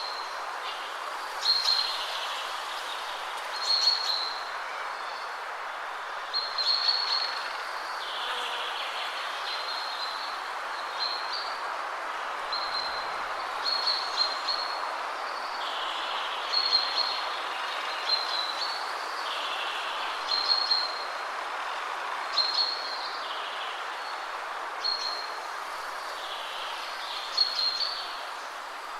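Steady rustle of wind through trees, with a songbird giving short high calls every second or two.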